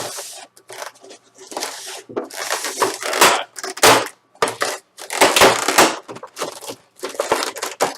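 Plastic packaging crinkling and crackling in bursts as figure pieces are pulled out of it, with short pauses between handfuls.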